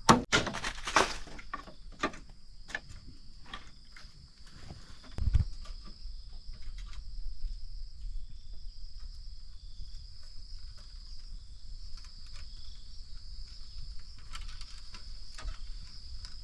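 A quick run of chopping strikes in the first second or two, then a steady high-pitched drone of forest insects with scattered light knocks and a dull thud about five seconds in.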